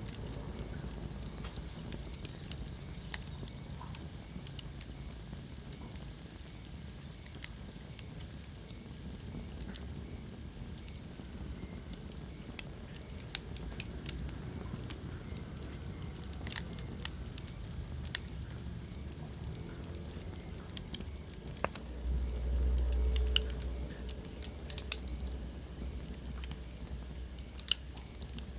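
Wood fire in a fireplace crackling, with irregular sharp pops over a steady low rumble of the flames. The low rumble swells louder for about two seconds near the end.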